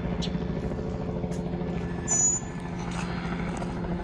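A large engine running steadily with a low drone, with a short high chirp about halfway through.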